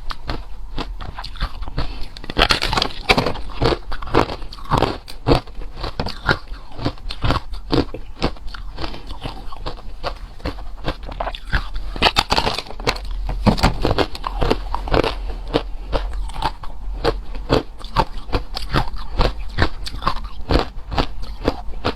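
Ice being bitten and chewed: a dense, irregular run of sharp crunches and cracks, several a second, that go on without a break.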